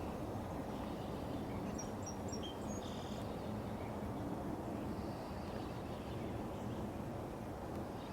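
Steady low wind noise, with a few faint, short bird chirps about two to three seconds in.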